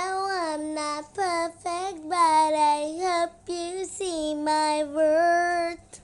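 A child singing solo and unaccompanied, a run of held, gliding notes in short phrases with brief breaths between them.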